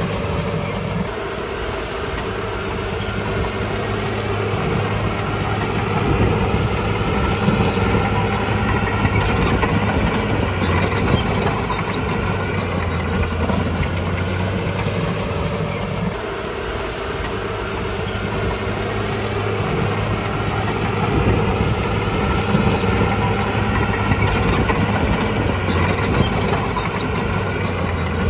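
Crawler bulldozer's diesel engine running under load, easing off and then working harder again twice, as in two push cycles, with a couple of brief sharp rattles.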